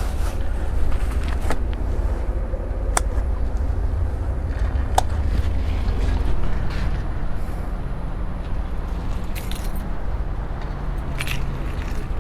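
Wind rumbling on the microphone, with a few sharp clicks and short scraping rustles as groceries are packed into bicycle saddlebags.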